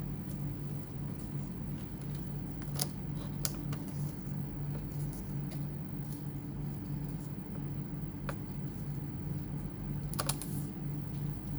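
A few sharp, light clicks and taps from handling small laptop parts and a screwdriver, spaced seconds apart, with a short cluster near the end, over a steady low hum.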